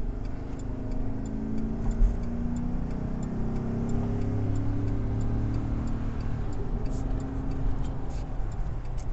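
Diesel locomotive idling with a steady low hum, its pitch shifting slightly, and a faint regular ticking about one and a half times a second.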